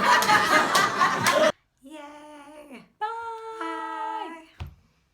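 Loud overlapping party chatter that cuts off abruptly, then a voice singing a short phrase of a few held notes.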